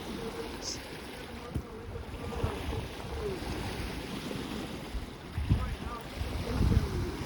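Wind rumbling on the microphone over the wash of lake waves on the shore, with a few soft thumps and faint voices in the background.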